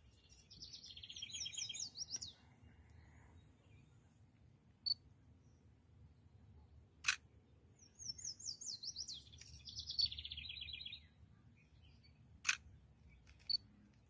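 A songbird singing two phrases of rapid trilled and slurred high notes, one near the start and one about eight seconds in, each lasting a second or two. A few short sharp clicks fall between them, over a faint low background rumble.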